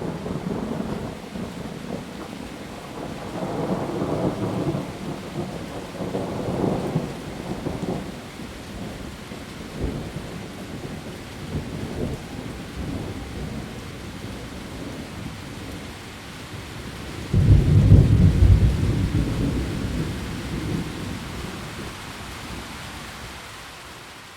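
Heavy rain falling steadily on leaves through a thunderstorm, with thunder rumbling a few seconds in and a sudden loud, close thunderclap about two-thirds of the way through that rolls away over several seconds.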